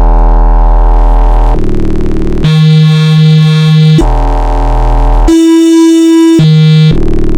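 Arturia Buchla Easel V software synthesizer playing a sequence of sustained, buzzy notes. The pitch steps about every second between a deep bass note and higher, purer tones.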